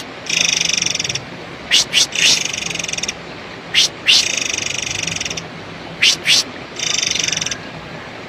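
Forktail (murai air) calling in a lure recording. Buzzy, rapidly pulsing high trills about a second long alternate with short, sharp whistles that drop steeply in pitch, mostly in pairs.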